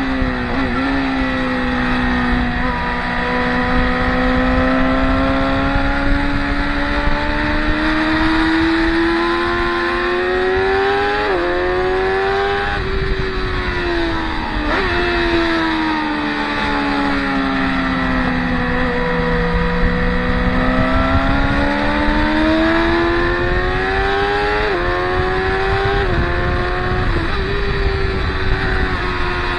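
Track-day motorcycle engines passing in an unbroken stream. Engine notes sweep down and then climb again over several seconds, with sudden steps in pitch at gear changes.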